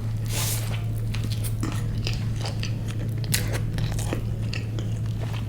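Close-miked biting and chewing of a noodle burger, with many small sharp crunching clicks, over a steady low hum.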